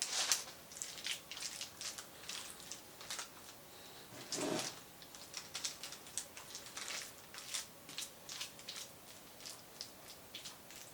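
Kitchen food-preparation sounds: a run of soft, irregular clicks, taps and scrapes, with two louder scrapes at the start and about four and a half seconds in.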